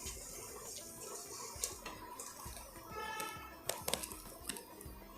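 Sugar syrup simmering faintly in a pan, with a few light clicks. The sugar has dissolved, but the syrup has not yet reached string consistency.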